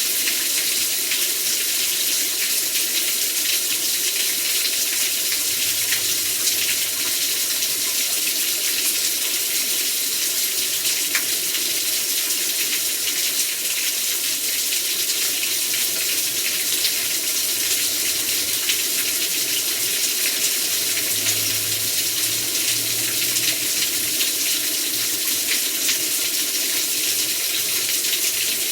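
Heavy rain pouring down steadily: a dense, unbroken hiss.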